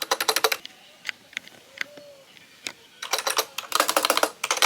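Typing on a retro typewriter-style keyboard. There is a quick run of clicky keystrokes at the start, a few single key presses, then a longer fast run from about three seconds in.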